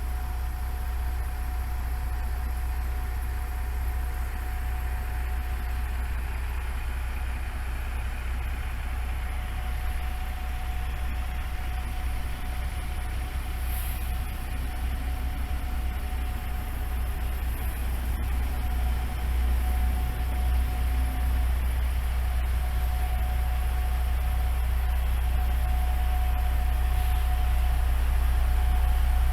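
Diesel railcar's engine running steadily with a low drone and a thin steady whine, growing gradually louder over the last part.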